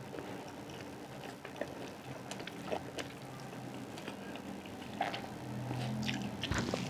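Close-miked chewing and mouth sounds of someone eating, scattered small clicks and crunches, over a low steady hum that grows a little louder near the end.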